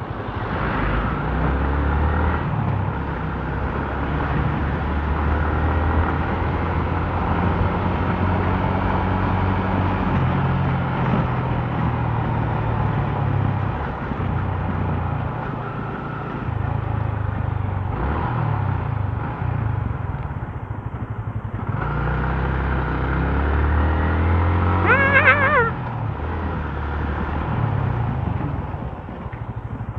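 Motorcycle engine running while riding in city traffic, its note stepping up and down with speed and gear changes, with a few short rising revs. A brief loud pitched sound cuts in about five seconds before the end.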